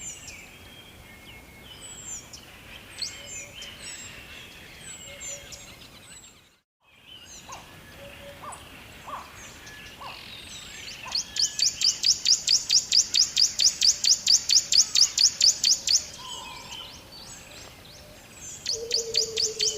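Songbirds chirping with scattered short calls, broken by a brief dropout about a third of the way in. From about halfway a loud, rapid high trill of roughly eight notes a second runs for about five seconds, then starts again near the end.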